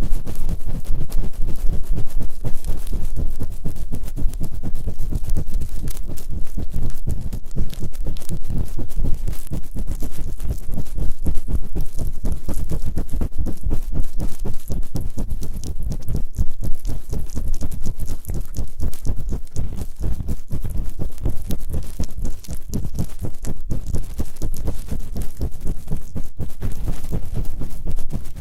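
Fast, continuous scraping and rubbing on both ears of a binaural ASMR microphone, many quick strokes a second, with a heavy low rumble under a scratchy top.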